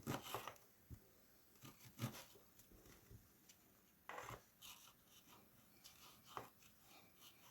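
Knife slicing cherry tomatoes on a cutting board: faint, irregular knocks and short scrapes of the blade meeting the board, a few seconds apart.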